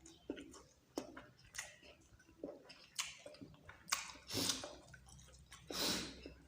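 Close-miked chewing of a mouthful of dal bhat and meat, with wet smacking clicks every second or so and a few short, louder mouth noises.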